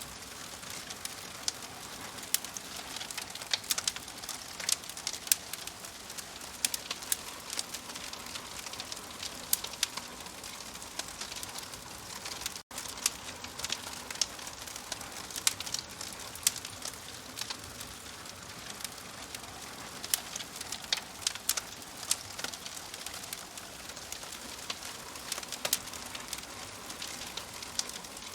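Wood fire in a fireplace crackling steadily: a soft hiss with frequent sharp pops and snaps. There is a split-second gap in the sound a little under halfway through.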